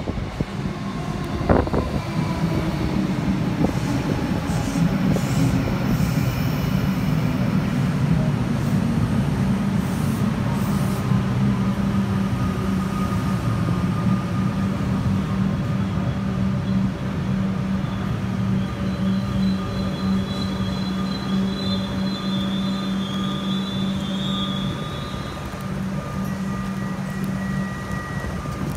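Electric suburban metro train entering an underground station and running in along the platform, with a steady low hum. There is a sharp knock about a second and a half in, and thin high whistles in the second half.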